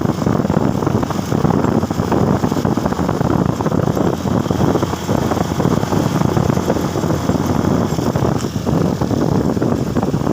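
Wind rushing and buffeting over the microphone of a moving motorcycle, mixed with road and engine noise. The sound is loud and steady.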